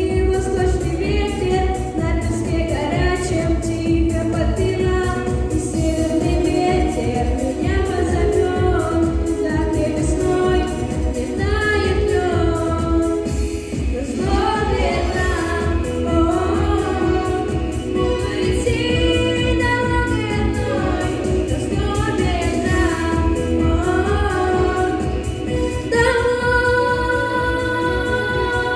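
A song with a solo sung vocal line over a full backing track with a steady low beat. A long held note near the end.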